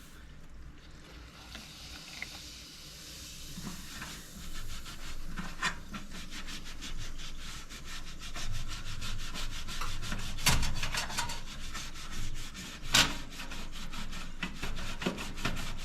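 Sponge soaked in white vinegar scrubbing baked-on grease from a toaster oven, in rapid, even back-and-forth strokes, with a couple of harder strokes in the second half.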